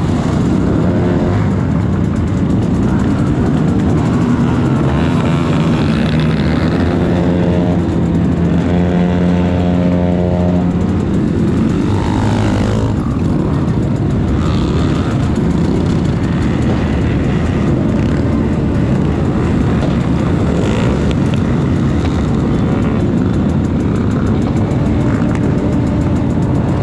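Motorcycle engine running steadily under a continuous rush of noise, its pitch shifting about halfway through.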